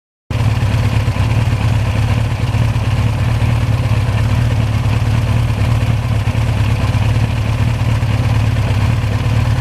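1982 Suzuki GS1100E's air-cooled inline-four engine running steadily at an even speed. It cuts in abruptly just after the start and cuts off just before the end.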